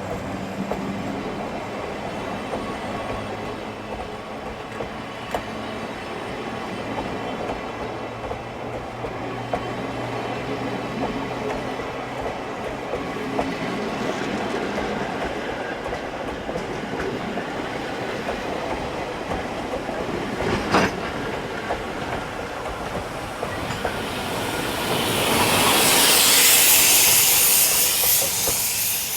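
Locomotive-hauled passenger train rolling slowly into a station, wheels clacking over rail joints. Near the end a loud, high-pitched hiss swells up as the train comes to a stop.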